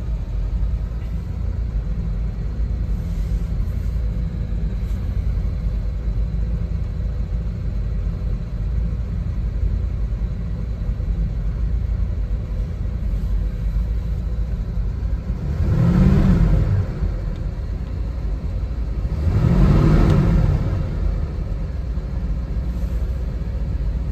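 Corsair roadster's engine idling with a steady low rumble as it warms up after a cold start. It is briefly revved twice, rising and falling in pitch, about two-thirds of the way through and again a few seconds later.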